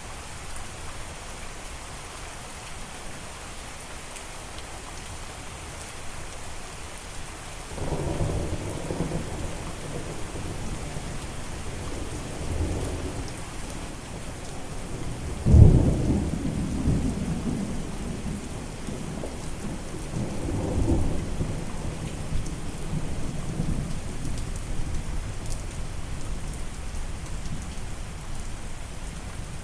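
Steady rain falling, with rolls of thunder: rumbling starts about a quarter of the way in, a sharp, loud thunderclap comes near the middle and trails off into rumbling, and a further roll follows a few seconds later.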